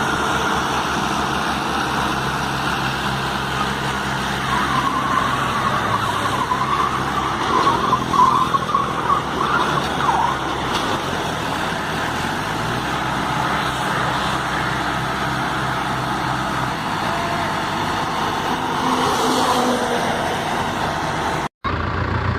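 A vehicle engine running steadily, with a wavering higher whine partway through; the sound cuts out abruptly for a moment near the end.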